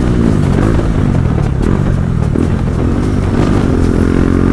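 Motorcycle engine and exhaust running steadily at an even speed while being ridden.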